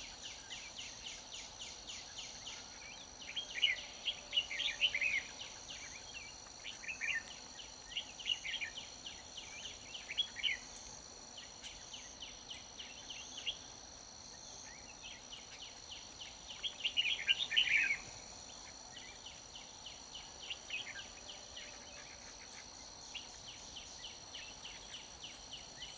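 Red-whiskered bulbuls singing in short, bright phrases every few seconds, one burst about two-thirds of the way through louder than the rest, over a steady pulsing insect trill.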